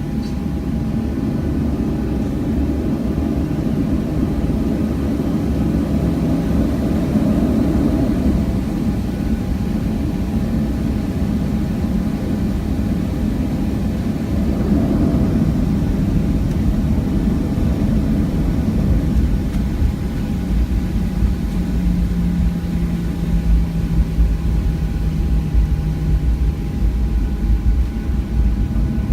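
Steady cabin noise inside a Southwest Boeing 737 on the ground: a loud, even low rumble with a constant thin tone, swelling slightly a couple of times.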